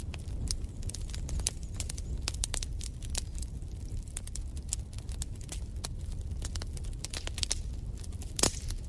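Wood fire crackling in a fireplace: irregular sharp pops and snaps over a low, steady rumble, with one louder pop near the end.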